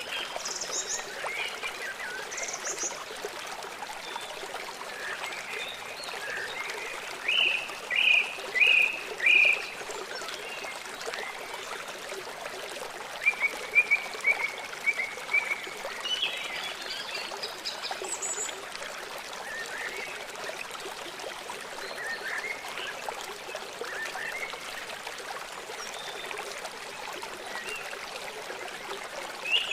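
Small songbirds chirping in short, separate calls over a steady hiss of running water. There is a loud run of three chirps about seven to nine seconds in and a quick trill around fourteen seconds.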